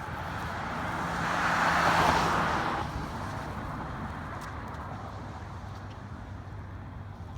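A car passing by, swelling to a peak about two seconds in and fading away by three seconds, then low steady traffic noise.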